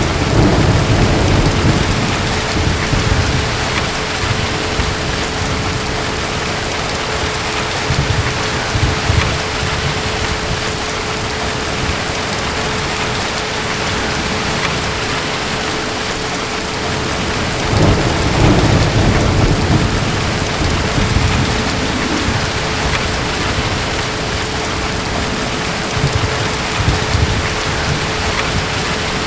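Steady rain with rolls of distant thunder: a low rumble right at the start and another about eighteen seconds in, with weaker rumbles between them.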